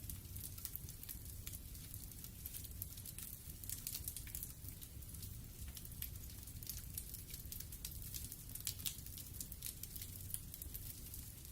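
Wood fire in a fireplace crackling, with frequent small sharp pops over a low steady rumble.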